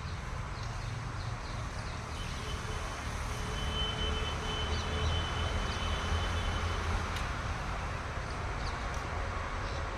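Motor vehicle engine running with a steady low rumble that grows a little louder partway through, with a thin whine in the middle and a few bird chirps early on.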